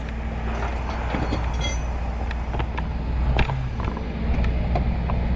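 Tow truck engine idling with a steady low rumble, with scattered short clanks and knocks over it.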